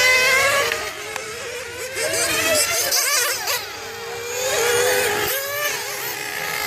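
Several radio-controlled racing cars' motors whining at high revs, their pitch rising and falling over and over as they accelerate and brake around the track.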